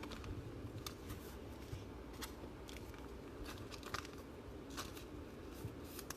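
Trading cards being handled, with faint scattered clicks and crinkly rustles from the cardstock and plastic.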